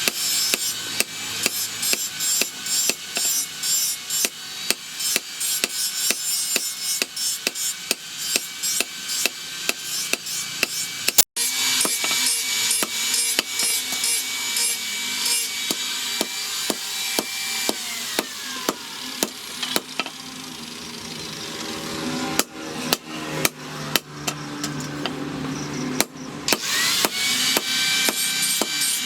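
Hammer blows on steel, several strikes a second in long runs. In the middle stretch a steady whine runs and then falls in pitch before the strikes start again.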